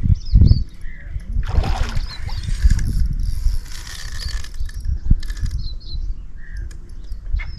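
Small birds chirping repeatedly over a constant low rumble, with a few sudden knocks and rustles of handling.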